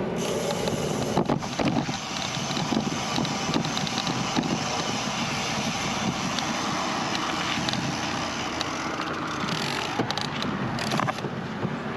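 Wind rushing over a bike-mounted GoPro's microphone, with road noise from a bicycle riding along, and a few short clicks and rattles.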